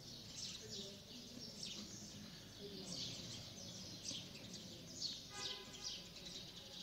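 Small birds chirping faintly, a dense run of quick high chirps, with a brief buzzy note about five seconds in.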